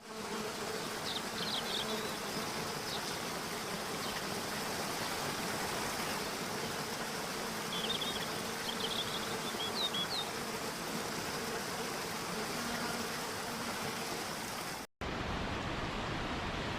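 Steady rushing of a waterfall cascading. A few short, high chirps come about one to three seconds in and again around eight to ten seconds in. The sound cuts out for an instant near the end and comes back duller.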